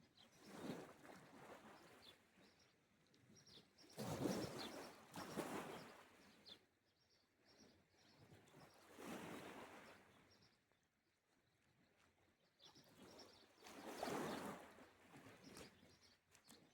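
Gentle sea waves washing onto the shore, a soft surge swelling and fading about every four to five seconds. Faint bird chirps sound between the waves.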